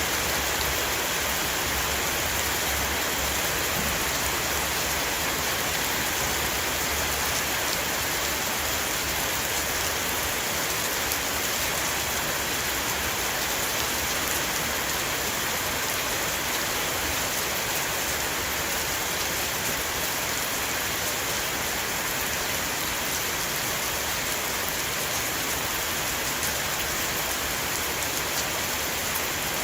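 Heavy rain, a downpour, falling steadily on a roof, a dense even hiss of many drops.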